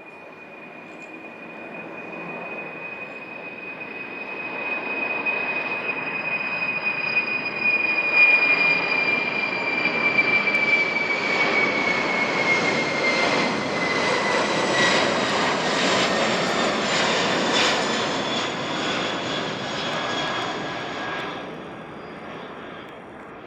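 Boeing 747-400ERF freighter's four jet engines passing by. A high whine slowly falls in pitch as the rushing sound swells to its loudest in the middle, then fades near the end.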